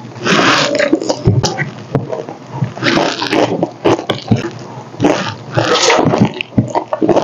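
Close-up, loud mouth sounds of someone eating roast duck with her fingers: wet chewing and lip-smacking in irregular bursts.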